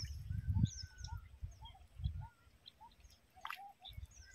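Small birds chirping and calling, short high notes scattered throughout and a thin drawn-out whistle early on, over intermittent low rumbles.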